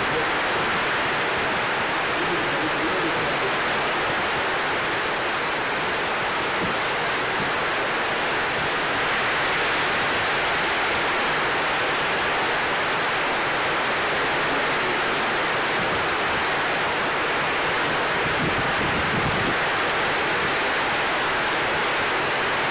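Heavy rain falling steadily in a wind-driven downpour on palm fronds and dense vegetation.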